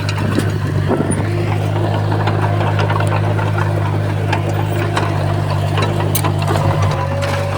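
Komatsu D51PX bulldozer's diesel engine running steadily, with scattered clicks and clanks over the drone. The engine note shifts slightly about seven seconds in.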